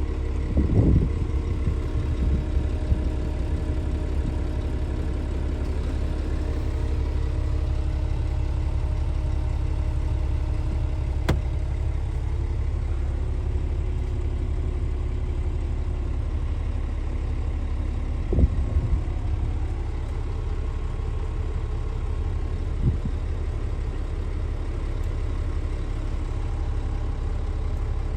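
Scania S500 truck's 13-litre inline-six diesel idling with a steady low drone, with a few brief knocks over it.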